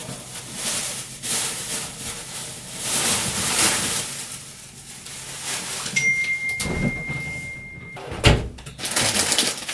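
Rustling of plastic shopping bags and packaging as groceries are unpacked and put away. Past the middle a steady high electronic beep sounds for about two seconds, and near the end comes one sharp thunk.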